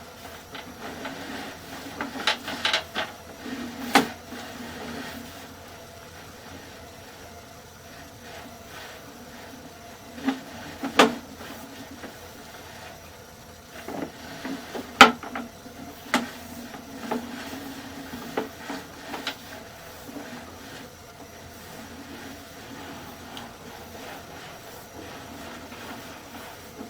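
Sewer inspection camera rig being worked: scattered knocks and clicks, the sharpest about 4, 11 and 15 seconds in, over a low steady hum.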